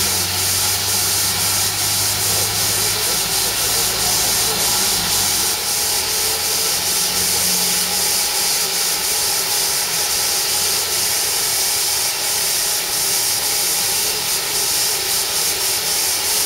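Steady, loud hiss of escaping steam from the steam locomotive 60163 Tornado, a Peppercorn A1 Pacific. A low engine hum sits under it for the first few seconds.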